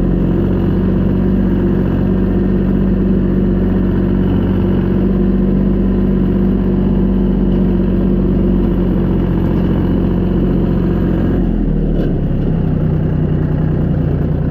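Tractor engine running steadily at a constant speed, dropping slightly in pitch about eleven and a half seconds in.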